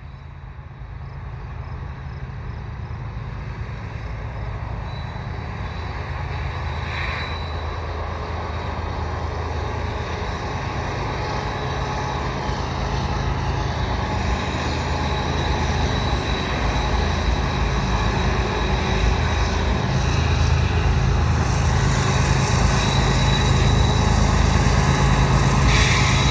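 Diesel locomotives of a freight train approaching slowly, a low engine rumble that grows steadily louder. The lead units are four General Electric ES44AC locomotives.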